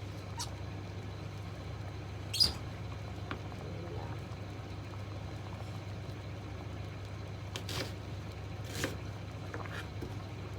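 Light clicks and knocks of kitchen items being handled, over a steady low hum; the sharpest knock comes about two and a half seconds in, with a few fainter ones later.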